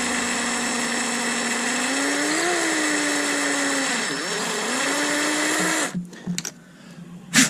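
Small electric drill boring a hole through the plastic body of a toy drone. The motor hum rises in pitch about two and a half seconds in, sags as the bit bites about four seconds in, and stops about six seconds in. A sharp click comes near the end.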